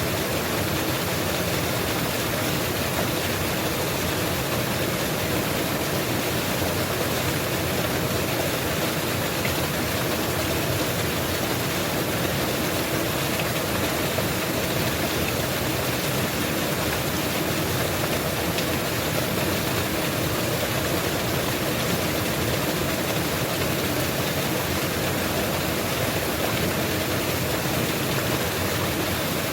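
Mountain waterfall pouring steadily: an even rushing noise that doesn't change.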